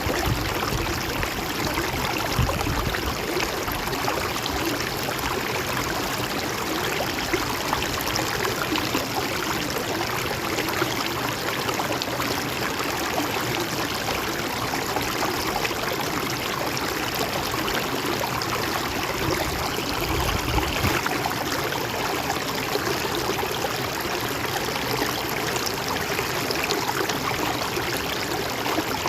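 River water flowing steadily, with a low rumble swelling briefly about two seconds in and again about twenty seconds in.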